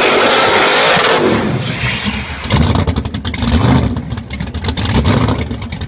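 Supercharged car engine at full revs with the rear tyres spinning in a burnout. About a second in it drops off, then revs up and down in short bursts with a crackling exhaust.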